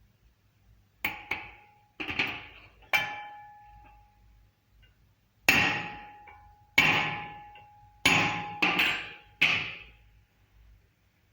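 Hammer blows on metal: about ten irregular strikes, some in quick pairs, each leaving a short ringing tone.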